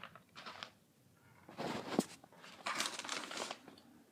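Plastic snack packaging crinkling and rustling as it is handled, in a few short bursts with a sharp click about two seconds in.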